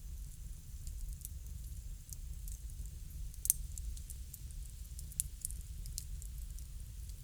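Wood bonfire crackling, with irregular sharp pops and snaps over a low, steady rumble; one pop about three and a half seconds in stands out.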